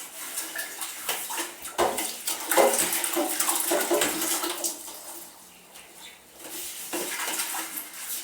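Dishes and utensils being washed by hand in a basin of water: irregular splashing and sloshing, which dies down briefly a little past the middle.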